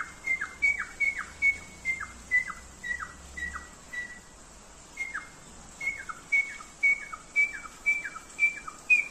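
A bird calling over and over, about two or three short chirps a second, each a high note that drops quickly in pitch, with a brief pause about four seconds in.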